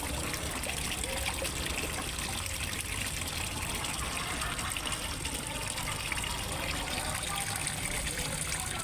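Water from a small fish-pond waterfall trickling and splashing steadily.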